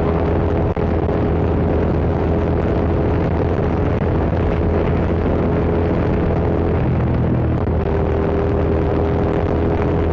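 Hyosung GT650 V-twin motorcycle engine running steadily under way, with wind and road noise over it. About seven seconds in, the engine note shifts briefly and then settles again.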